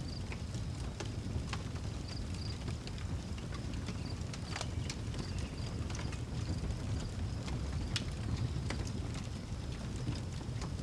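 Outdoor wood fire crackling, with irregular sharp pops over a low steady rumble, and crickets chirping in a high, broken trill.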